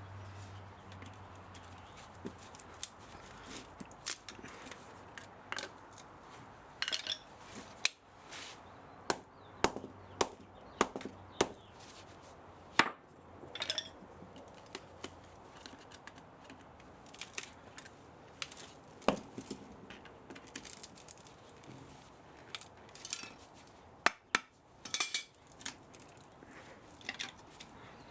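Irregular sharp knocks and clicks of hand tools working on the metal parts of an old spa motor as it is dismantled for scrap.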